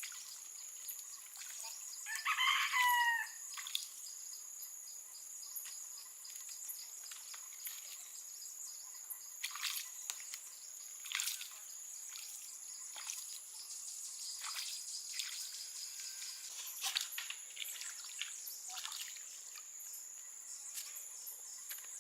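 A bird call, once, about two seconds in, about a second long and falling in pitch at the end, like a crow. Behind it runs a steady high-pitched whine, with scattered light clicks and ticks.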